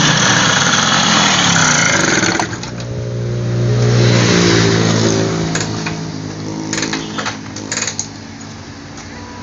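Freshly assembled Vespa Corsa 125 two-stroke automatic engine running. It revs loud and hard for the first couple of seconds, drops off suddenly, revs up again to a peak about four seconds in, then slows back toward idle, with a few sharp clicks near the end.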